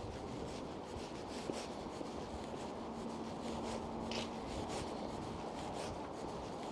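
Footsteps of a person walking on pavement, about two scuffing steps a second, over a steady low background rumble, with a faint humming tone for a couple of seconds in the middle.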